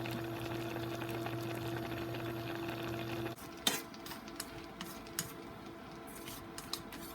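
Kitchen utensils and dishes clinking and scraping over a steady hum that drops away sharply about three seconds in, then continues fainter.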